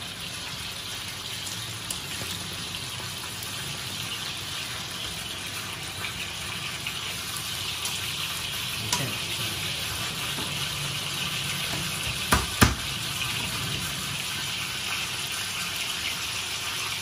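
Conger eel steaks sizzling in hot oil in a frying pan: a steady hiss that grows a little louder. There are two sharp knocks in quick succession about three-quarters of the way through.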